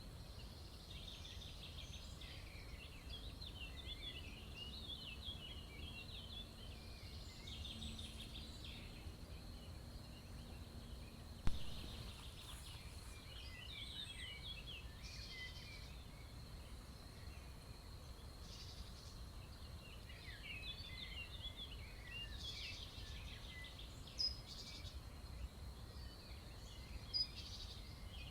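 Several wild songbirds chirping and twittering in quick overlapping runs of short notes, over a thin steady high tone and a low rumble. A single sharp click sounds about eleven seconds in.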